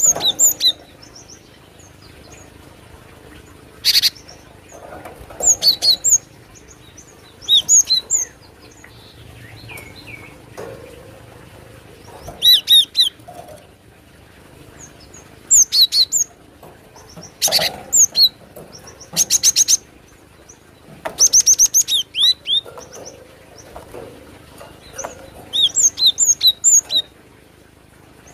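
Cinereous tit (gelatik batu) calling: about ten short bursts of high-pitched chirps and rapid runs of repeated notes, separated by pauses of one to three seconds.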